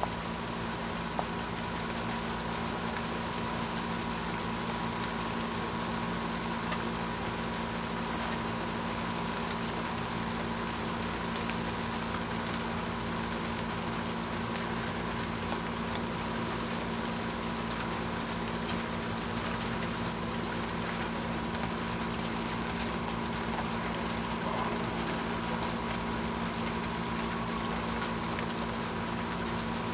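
Steady rain falling with a light patter and a few faint drips, over a constant steady hum. No thunder rumble is heard.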